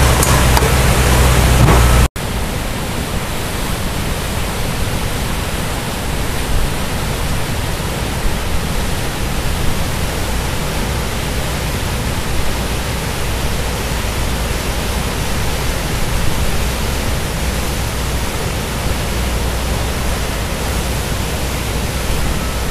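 Steady rush of a flooded river's high water, an even noise without rhythm. An abrupt cut about two seconds in ends a louder, lower-rumbling stretch.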